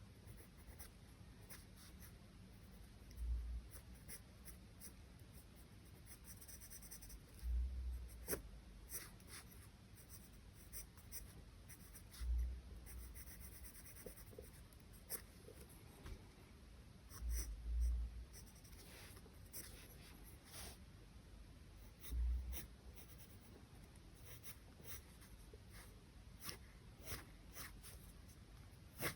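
Charcoal scratching and rubbing on drawing paper in short, irregular strokes. A soft low thump comes every few seconds, about five times.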